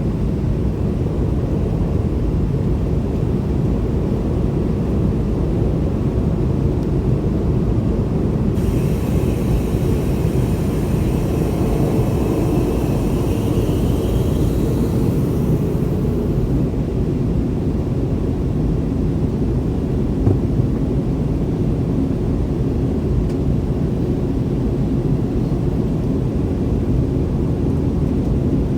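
Cabin sound of a McDonnell Douglas MD-90-30 under power: a steady low roar from its two rear-mounted IAE V2500 turbofan engines. About a third of the way in, a higher hiss with faint tones joins for several seconds, then fades away.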